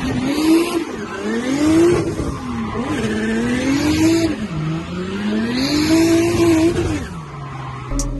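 Drift car's engine revving up and down repeatedly, with the tyres squealing in bursts as the car slides. Near the end the revs drop and hold low and steady.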